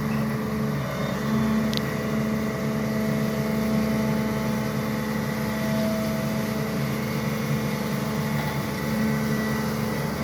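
SANY excavator's diesel engine running steadily, with a steady whine over the engine note.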